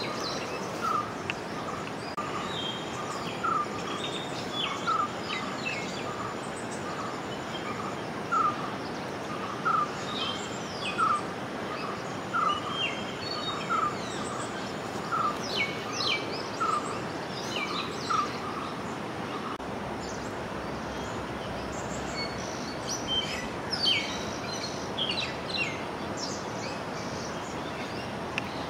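Birds calling over steady background noise: one bird repeats a short note about once a second for the first two-thirds, while other birds chirp higher in between.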